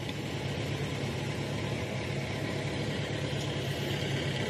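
Vehicle engine idling steadily, a constant low hum with no change in speed.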